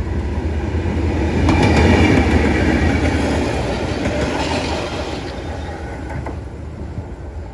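Passenger train of Vietnam's railway rolling past close by, a steady rumble of wheels on rails with a sharp clack about a second and a half in and another near the end. It swells to its loudest a couple of seconds in, then slowly fades.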